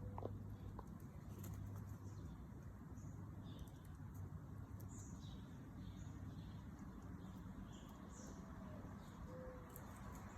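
Faint, scattered chirps and calls from backyard birds over a steady low hum, with a couple of short low notes near the end.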